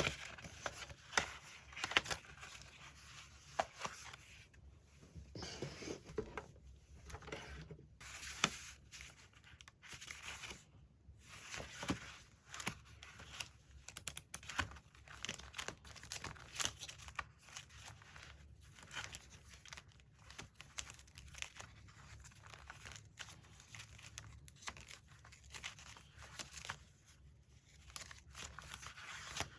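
Paper being handled and torn: irregular rustling and crinkling with short tearing strokes and many small taps and clicks.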